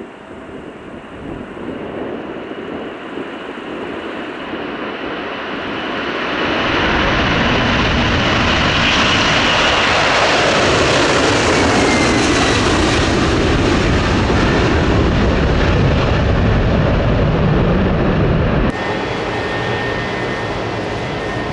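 Airliner's engines passing close by: the noise builds over several seconds to a loud, steady peak, with a whine that falls in pitch as the aircraft goes past. The sound drops suddenly about three seconds before the end.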